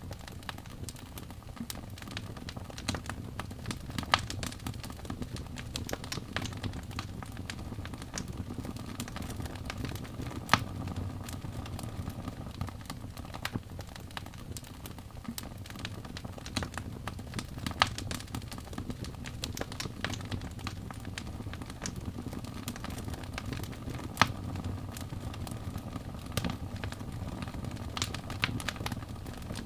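Wood fire burning with a steady low rumble and constant crackling, broken by a few louder sharp pops.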